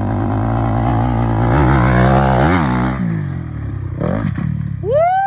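Dirt bike engine revving hard, climbing in pitch, then the throttle is chopped about three seconds in, as on a run at a jump. Near the end a person starts a loud rising whoop.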